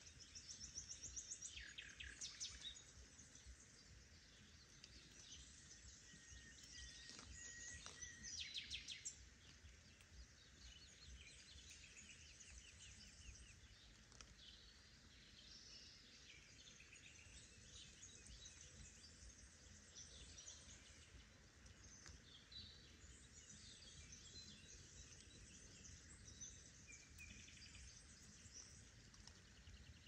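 Faint songbirds singing, with repeated chirping and trilling phrases, loudest in the first few seconds and again about eight seconds in, over a low steady background hiss.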